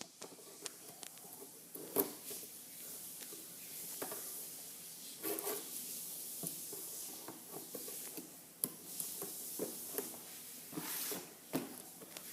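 Scissors scraping and snipping at the packing tape on a cardboard box, with scattered small clicks and brief rustles at irregular moments.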